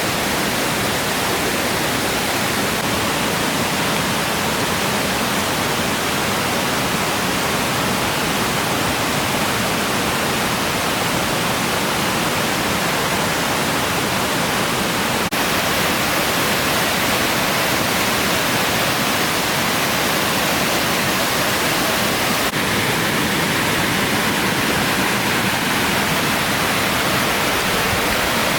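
Waterfall rushing: a steady, loud noise of falling water that does not change.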